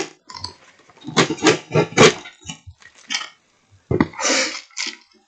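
Cardboard box and packaging handled and rustled as a parcel is opened, in uneven crackly bursts, with a knock about four seconds in.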